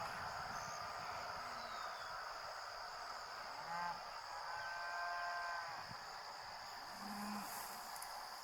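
A farm animal calling: a short call, then one held call of about a second, and a brief low call near the end, over a steady chirring of insects.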